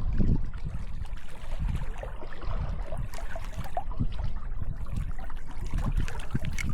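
Water trickling and lapping, with a low, uneven rumble of wind on the microphone and scattered small clicks.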